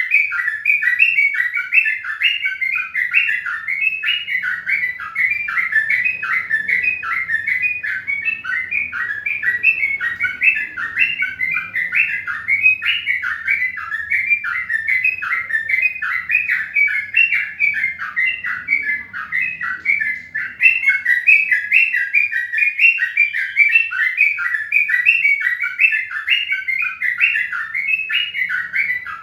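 A bird chirping continuously in rapid, evenly repeated short chirps, several a second, without pause.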